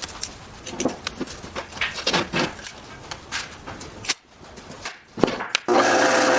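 Light knocks and clicks of wooden pieces and tools being handled on a workbench. Near the end a power tool starts suddenly and runs steadily.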